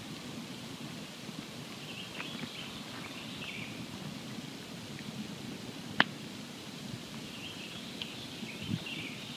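Campfire burning: a low steady rush with scattered small crackles and one sharp, loud pop about six seconds in. Faint high twittering comes and goes twice in the background.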